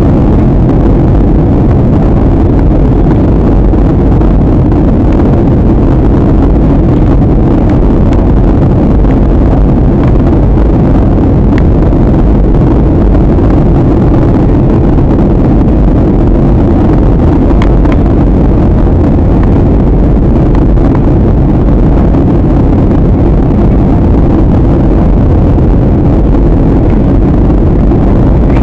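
Airliner cabin noise in flight: the steady, loud, low rumble of the jet engines and airflow, unchanging throughout.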